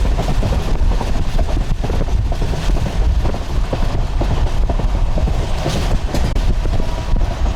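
Moving passenger train heard from inside: a steady low rumble with continual rattling and clicking from the carriage.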